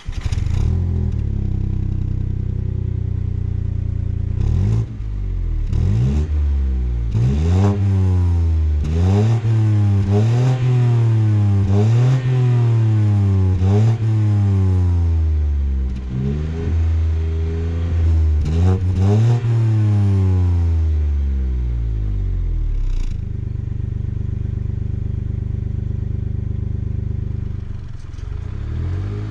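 BMW 118i's 1.5-litre turbo three-cylinder engine, heard at the exhaust, idling, then revved repeatedly while stationary: a quick run of short revs, each rising and falling in pitch. After about 22 s it drops back to a steady idle.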